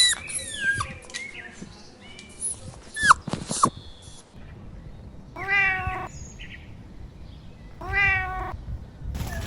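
A domestic cat meowing twice, about five and eight seconds in, each meow rising then falling. Before the meows comes a run of short, high squeaks and chirps.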